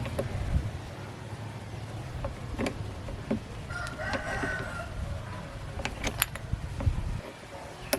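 A rooster crows once, about halfway through, over a steady low rumble, with several sharp clicks and taps scattered through.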